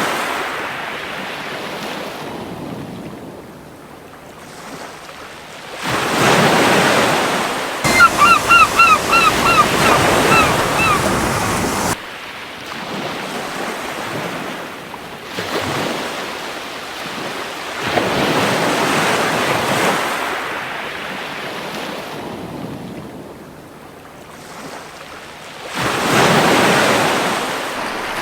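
Ocean waves breaking and washing up a beach, the surf swelling and fading in repeated surges every several seconds. About eight seconds in, a seagull gives a quick run of about eight short calls, each dropping in pitch.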